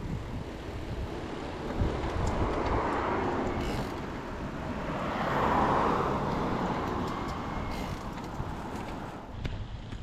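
Two road vehicles passing one after the other, each a swell of tyre and engine noise that builds and fades, the second louder, over a low rumble of wind on the microphone.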